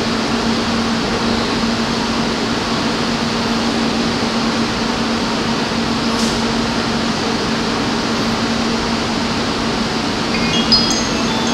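Steady electric hum and air-conditioning blower noise from the E2 series Shinkansen standing at the platform, with a constant low tone throughout. Near the end a short rising run of high electronic chime notes sounds.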